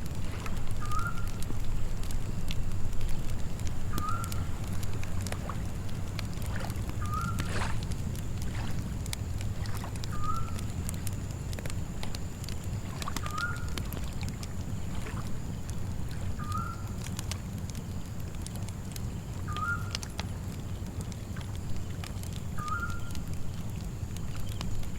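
Layered night ambience: a campfire crackling with scattered sharp pops, a steady high insect trill of crickets, and a low steady rumble of lapping water. A short chirping call repeats about every three seconds throughout.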